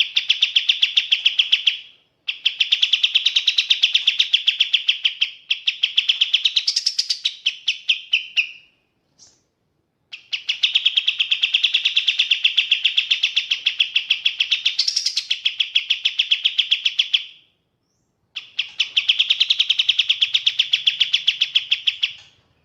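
Kapas tembak songbird singing long, fast, high trills of rapidly repeated notes, each phrase running several seconds, with short pauses between phrases.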